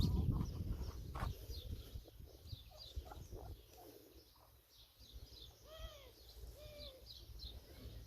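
Small birds chirping over and over, with two short arched calls about six and seven seconds in. A low rumble at the start is the loudest part.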